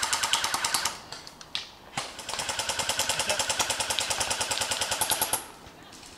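Airsoft guns firing on full auto in fast, even rattles: a burst that stops about a second in, two single shots, then a longer burst of about three seconds that cuts off near the end.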